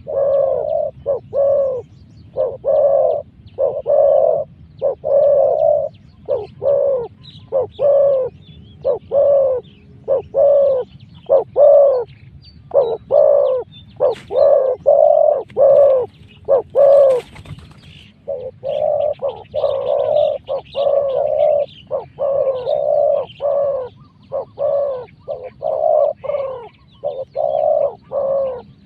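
Spotted dove cooing: short, low coos repeated in quick succession, about one to two a second, with a brief pause about two-thirds of the way through.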